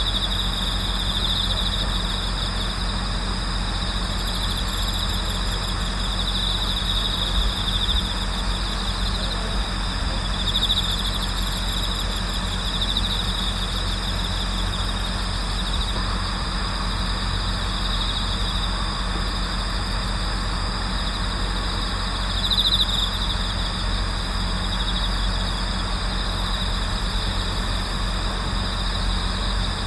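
Night chorus of autumn crickets chirring steadily, with high ringing trills that swell every few seconds. A steady low hum runs underneath.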